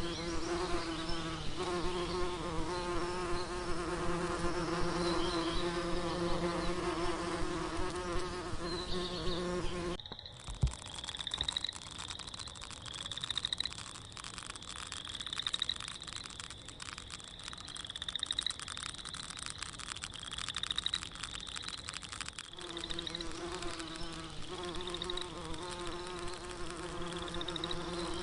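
A flying insect's wings buzzing in a steady, pitched drone. About ten seconds in it gives way to short, high, rising chirps repeated about once a second over a crackle, and the buzzing returns near the end.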